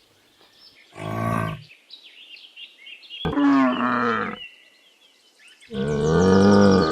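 Yak calling three times in low, drawn-out calls: a short one about a second in, a longer one a couple of seconds later, and the longest near the end. Small birds chirp faintly in the background.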